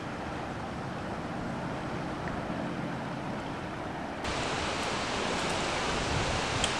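Steady rushing of river water mixed with wind on the microphone. About four seconds in it jumps suddenly louder and brighter.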